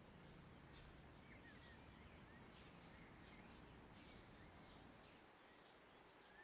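Faint songbird calls in woodland: many short high chirps and quick down-slurred notes, repeating irregularly over a low steady background hiss.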